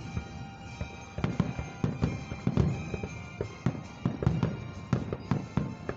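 Fireworks bursting in quick, irregular succession: a steady run of booms and sharp cracks, several a second, with some crackle.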